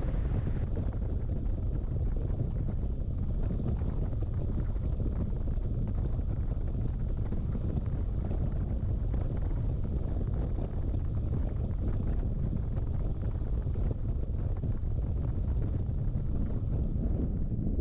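Steady wind rush buffeting a chest-mounted camera microphone on a moving motorcycle, with the bike's engine and road noise blended underneath as an even low rumble.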